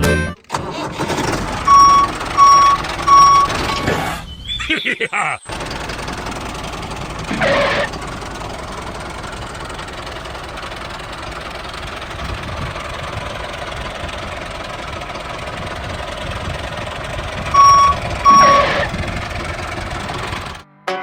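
Small motor of a mini tractor running steadily, with three short beeps about two seconds in and two more near the end. A rising whine is heard briefly around four to five seconds in.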